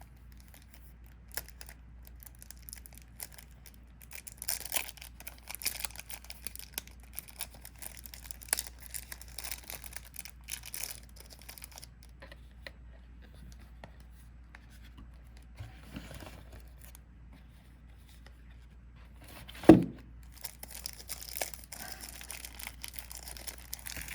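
Plastic shrink-wrap being torn and crinkled off a sealed trading-card starter deck, in irregular bursts of crackling, with one short loud thump a little before the end.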